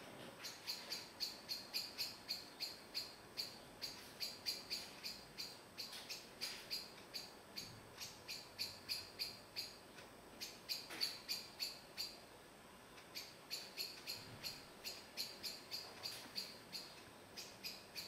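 Spotted flycatcher calling: a long run of short, high chirps, about three a second, with a brief pause a little past the middle.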